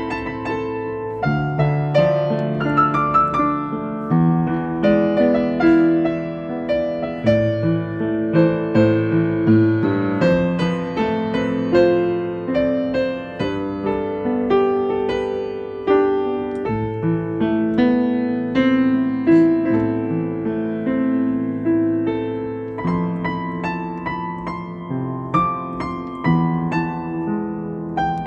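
Solo piano music: a slow, gentle piece of melody over chords, notes struck and left to ring.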